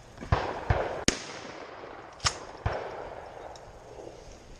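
Shotgun shots: about five sharp reports, in quick pairs about a second apart, each trailing off in a fading echo.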